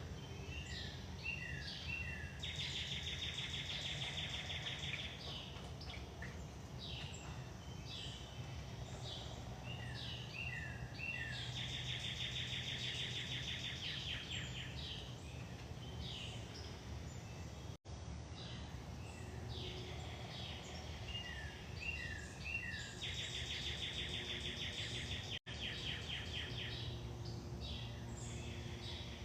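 A songbird singing the same song three times, about ten seconds apart: a few quick downslurred notes, then a fast even trill lasting a couple of seconds, over a steady low rumble.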